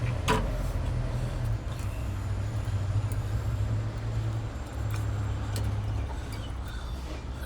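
Steady low vehicle rumble, with a few sharp metallic clicks as the rear brake caliper is unbolted and swung open: a strong click near the start and fainter ones later.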